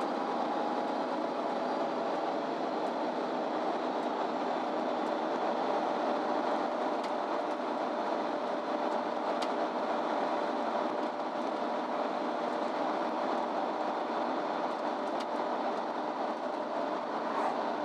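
Cabin sound of a MAN Lion's City Ü bus underway: steady engine, drivetrain and road noise with a steady whine that dips slightly in pitch in the first few seconds, and a few faint clicks and rattles.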